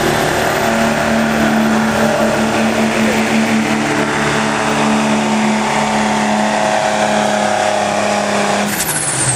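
Diesel pickup truck engine running at steady high revs under full load, pulling the sled. Near the end the engine note drops away.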